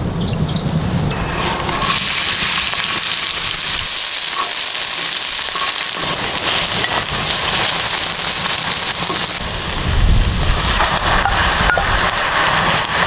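Chopped green onions frying in hot oil on a cast-iron cauldron lid, stirred with a wooden spatula. A steady sizzle starts about two seconds in. A low rumble is there at the start and again about ten seconds in.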